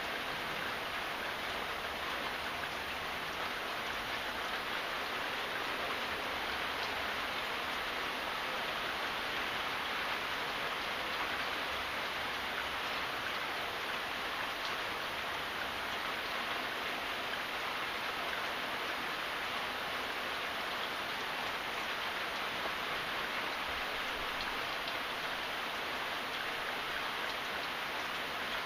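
Steady rain falling, a constant even hiss of many drops with faint patter.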